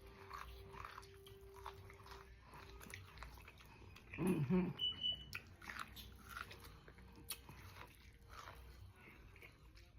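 Close-up chewing and biting into boiled corn on the cob, with many small crunchy clicks.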